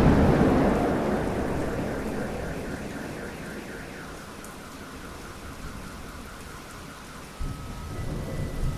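Steady rain with thunder rumbling: loud at first and fading away over about five seconds. A new low thunder rumble starts about seven seconds in.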